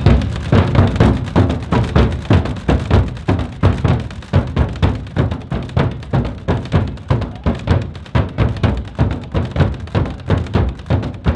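Percussion music: drums struck in a steady rhythm of about three heavy, low beats a second.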